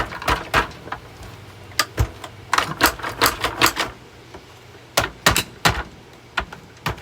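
Irregular sharp clacks and knocks from the hard body of an old Hoover vacuum cleaner being worked on by hand, some single, some in quick clattering runs.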